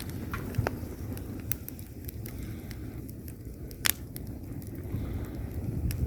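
Wood fire in a fireplace burning with a steady low rumble and scattered sharp crackles, one louder pop about four seconds in.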